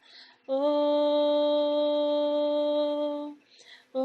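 A single voice singing one long, steady held note of a cantiga for the orixá Xangô, with a breath drawn just before the note and another about three and a half seconds in.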